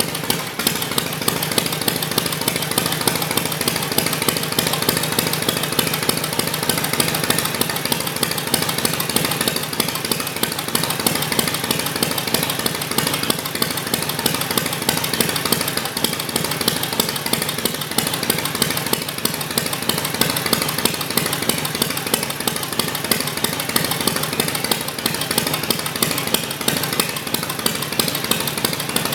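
1946 Harley-Davidson WL's magneto-fired 45 cubic inch flathead V-twin idling steadily, its firing pulses coming evenly.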